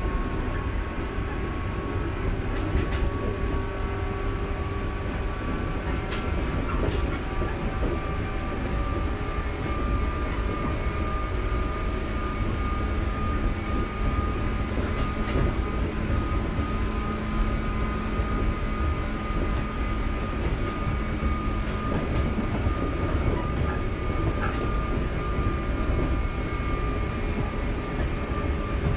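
JR Shikoku 121 series electric train running, heard from inside the car: a steady rumble of motors and wheels on the rails with a faint steady whine and a few scattered clicks.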